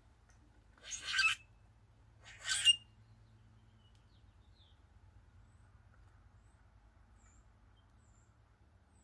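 Two harsh, squeaky bird calls, about a second and a half apart, followed by a few faint, high chirps.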